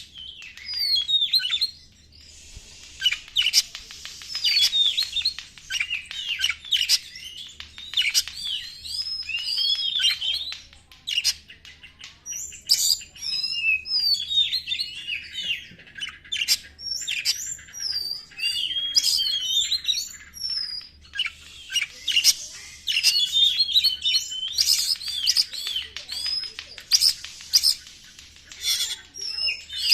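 Oriental magpie-robin (kacer) singing a fast, varied song of whistles, chirps and rapid sharp notes with a few brief pauses, in the frantic non-stop 'konslet' style used as a trigger call to rouse other kacer.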